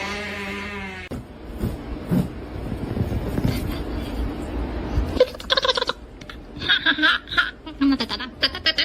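A person laughing in short, repeated bursts through the second half, after a held cry that ends about a second in and a few seconds of low rumbling with scattered knocks.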